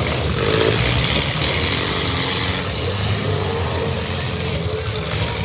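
Several small demolition derby cars' engines running and revving together, their pitch rising and falling as the cars drive and ram one another.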